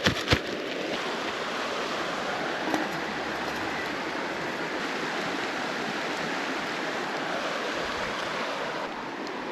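Steady rushing of a small stream's running water.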